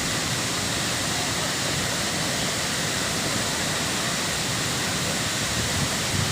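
Waterfall's water pouring in a steady, unbroken rush.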